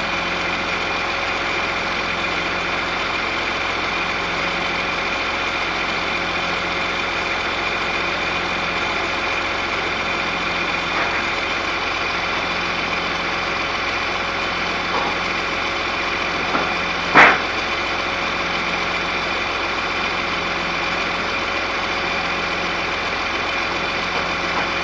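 An engine idling steadily, with a low pulse about every second and a half, and a single sharp knock about 17 seconds in.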